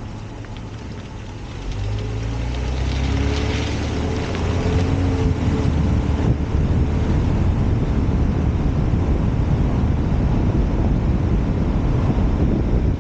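Honda Accord V6 accelerating, its engine note swelling and rising about two seconds in, then steady wind and road noise at speed, picked up by a microphone mounted outside on the back of the car.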